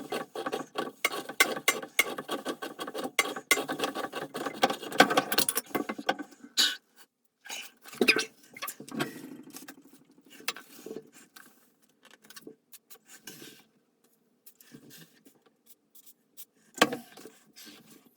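Hand tools working on water-tank plumbing: about six seconds of rapid scraping clicks, then scattered knocks and clicks, with a sharper knock near the end.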